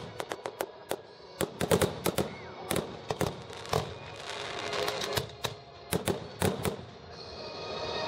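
Fireworks going off: a rapid, irregular string of sharp cracks and pops, with a hissing crackle building near the end.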